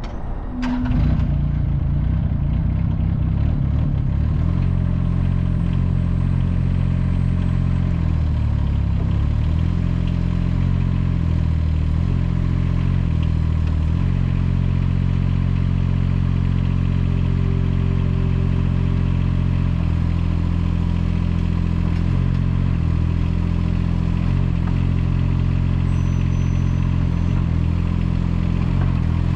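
SD Lanch SDLE20 mini excavator running steadily, its engine note dipping briefly and recovering several times, most plainly around eight to ten seconds in.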